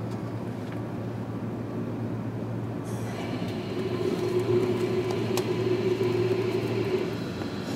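Running noise of a JR Kyushu 305 series electric train heard from inside its motor car: a steady rumble that grows brighter and louder about three seconds in, with a steady tone over it until about seven seconds in.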